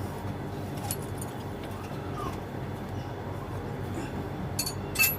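Metal hand tools clinking against the engine as the timing belt tensioner is worked loose: a few light clicks, then a sharper metallic clink near the end, over a steady low hum.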